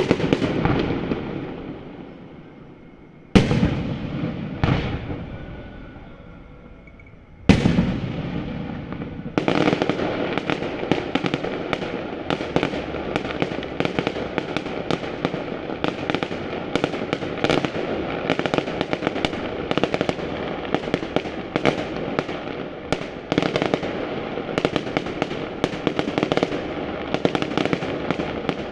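Fireworks display: big aerial shells burst a few seconds apart, each bang trailing off in a long echo. From about nine seconds in, the bursts merge into continuous dense crackling and rapid bangs.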